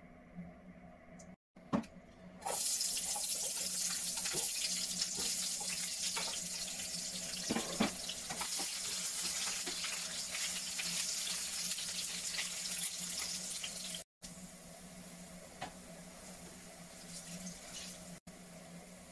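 Chopped onions and garlic sizzling in hot oil in a frying pan: a loud, crackling sizzle that starts abruptly a couple of seconds in and drops to a softer sizzle near the end, with a few knocks of the spatula against the pan.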